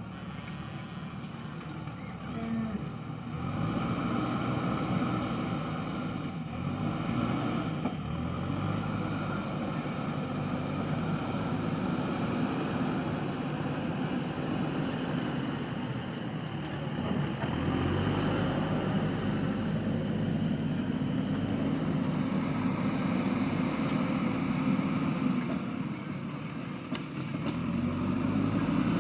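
JCB backhoe loader's diesel engine working under load, its pitch and level rising and falling as the hydraulics dig and swing the bucket. It picks up about three and a half seconds in, drops briefly near the end and rises again.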